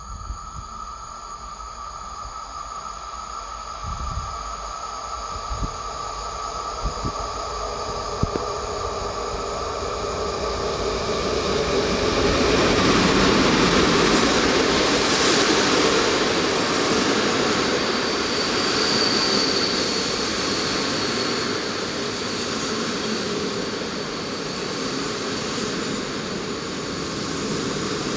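PKP Intercity passenger train approaching and running past along the platform. A rising rush of wheels on rail grows loudest about halfway through as the front of the train reaches the platform, then holds as a steady rumble while the coaches go by.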